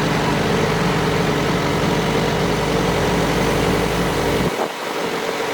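A heavy vehicle's engine running steadily at idle. About four and a half seconds in, its low rumble drops away abruptly.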